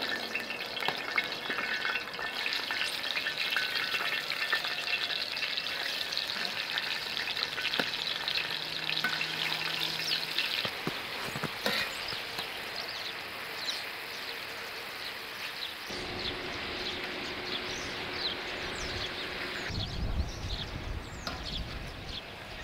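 Food frying and sizzling in a hot pan over an open fire, a steady hiss full of fine crackles and pops. The sizzle changes abruptly a few times, with more low rumble in the later part.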